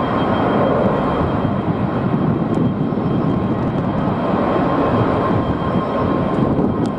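Jet airliner engines running: a steady rumble with a faint, even high whine over it.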